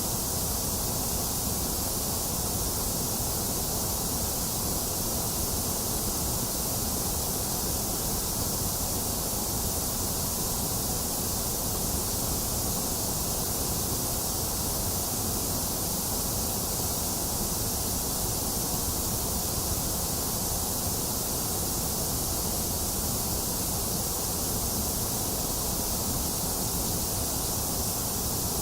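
Steady synthetic white noise: a constant, unchanging hiss, brightest in the high range with a hollow dip in the middle.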